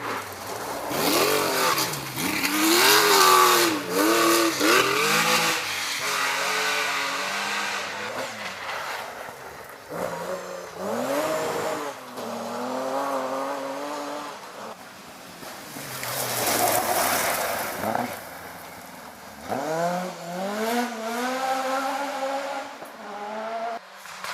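Rally car engines revving hard through the gears as cars drive a forest stage, the pitch climbing and dropping at each gear change. This happens in three runs, loudest about three seconds in, with quieter stretches between them.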